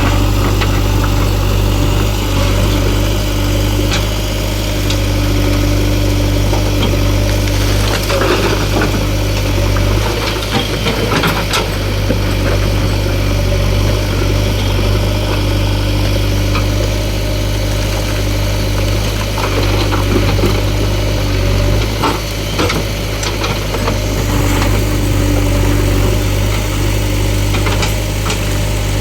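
Heavy diesel engine of farm or earth-moving machinery running steadily at low revs, with a few short metallic knocks and clanks partway through.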